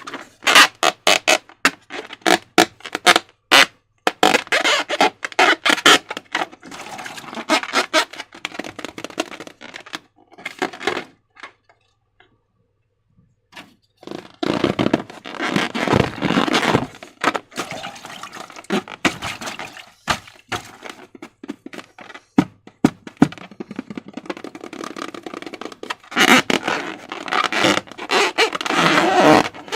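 Hands squeezing, pressing and stretching slime, making quick runs of sticky clicks, squelches and crackles. The sounds pause for a couple of seconds just before the middle, then pick up again densely.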